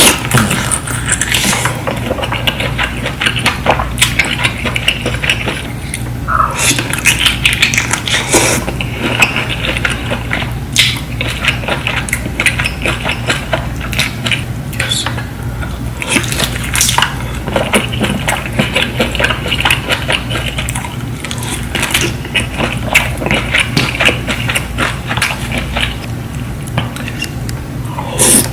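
Close-miked eating of saucy seafood: wet chewing and squelching of sauce with many quick sharp clicks and crackles, over a steady low hum.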